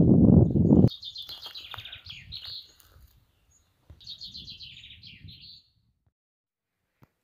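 A loud, low rumbling noise cuts off abruptly about a second in. A songbird then sings two bouts of quick, high, trilled phrases, the second starting about four seconds in, before the sound drops to silence.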